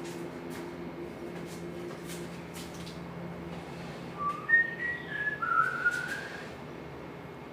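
A short run of whistled notes, a few brief pitched glides lasting about two seconds from around four seconds in, over faint tapping and a low hum.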